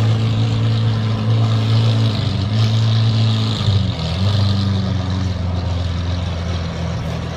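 A vehicle engine idles steadily with a low hum. Its pitch wavers slightly a little over two seconds in, then dips briefly and recovers about halfway through.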